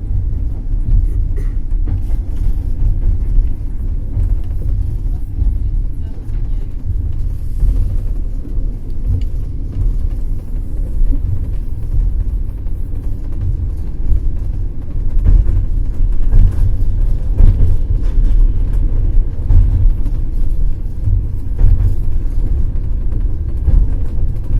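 Passenger train running on the rails: a steady low rumble with irregular knocks of the wheels over the track.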